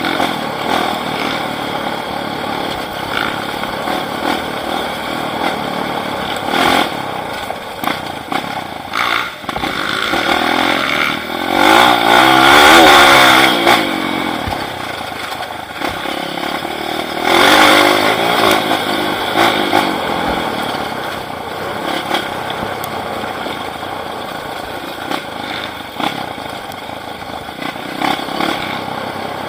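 Off-road motorcycle engine running, with two hard revs about twelve and seventeen seconds in, its pitch rising and falling.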